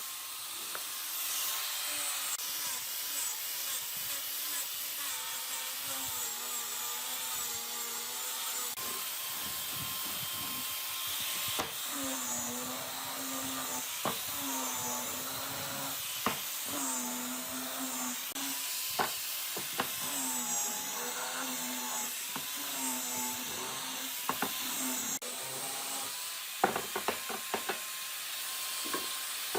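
Electric power tool running against wood, its motor pitch dipping and recovering as it is pressed into the work, with scattered clicks and a short run of knocks near the end.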